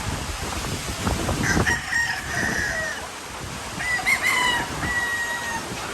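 A rooster crowing twice, the first crow about one and a half seconds in and the second about four seconds in, over steady storm wind noise.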